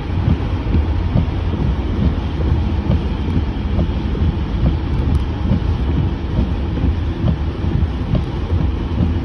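Storm wind gusting and buffeting the microphone in a low, uneven rumble, over a steady hiss of heavy rain.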